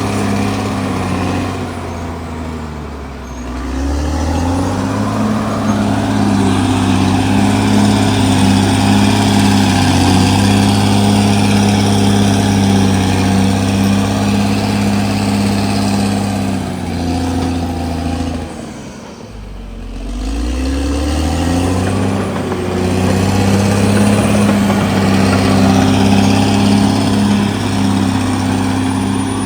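CAT D6R XL bulldozer's diesel engine running hard. Its pitch and loudness drop twice, about three seconds in and again near twenty seconds, then climb back up each time.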